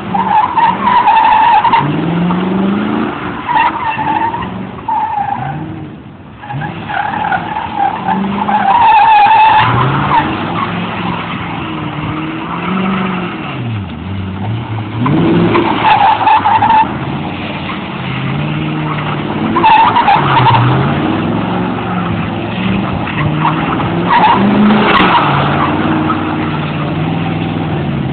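Ford Mustang GT's V8 revving hard and falling back again and again while the tyres squeal in repeated long bursts as the car drifts.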